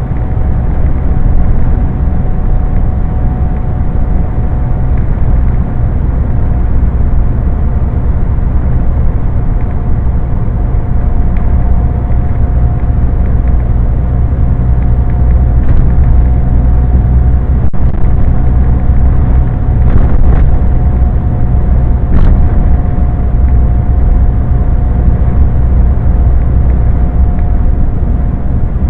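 Scania truck driving at a steady pace: a continuous low engine and road drone with a thin steady whine above it, and a few short clicks along the way.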